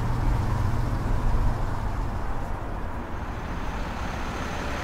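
A car engine running steadily with road noise, easing off slightly about two seconds in.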